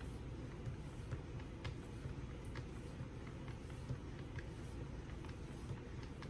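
Faint, irregular light clicks and taps from a Wicked Edge guided knife-sharpening system being handled, over a steady low hum.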